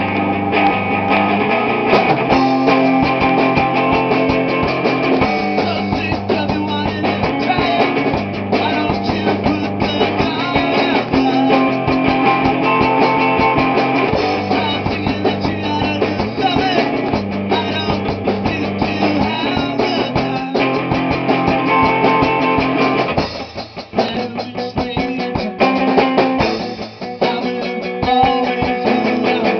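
Rock band rehearsing a song at full volume: electric guitars and a drum kit playing together. The band thins out briefly about three-quarters of the way through, then comes back in.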